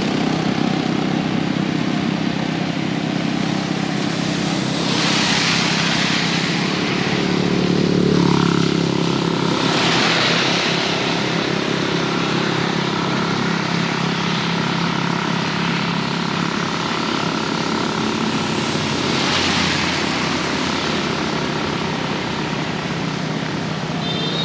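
Heavy rain pouring steadily, with a steady low hum beneath it and three louder rushing swells, about 5, 10 and 19 seconds in.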